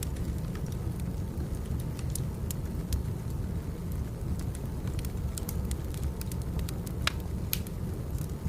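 Wood fire burning: a steady low rumble with frequent irregular sharp crackles and pops, two of the loudest about seven seconds in.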